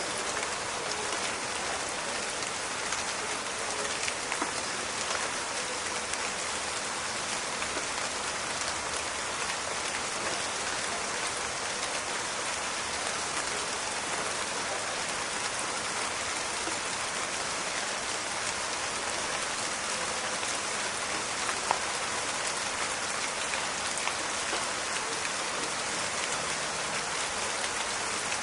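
Steady rain falling in a forest, a dense crackling hiss of drops with scattered sharper drop hits, one louder than the rest about two-thirds of the way through.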